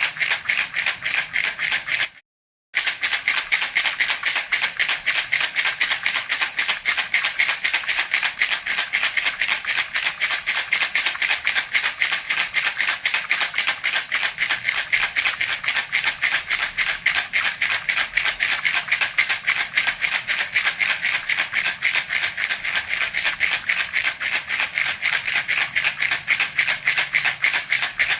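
Baby rattle (jhunjhuna) shaken rapidly and steadily, a continuous bright rattling of small beads, broken once by a short gap a couple of seconds in.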